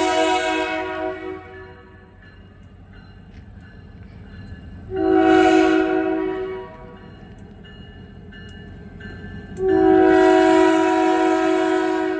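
Locomotive air horn sounding three blasts, each a chord of several notes: one fading about a second in, a shorter one around the middle, and a long one starting near the end. This is the horn pattern sounded at a grade crossing. A low rumble from the train runs underneath.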